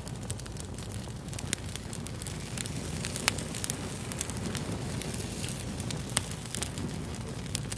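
Fire crackling: a steady low rumble with frequent sharp, irregular pops and snaps.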